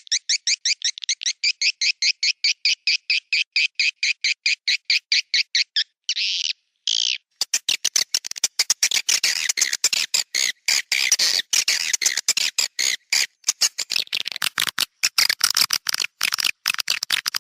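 Swiftlet roosting-call recording, the lure sound played in swiftlet houses to draw birds in to roost: a fast even run of short chirps, about eight a second, then two longer harsh calls about six seconds in, then dense rapid twittering.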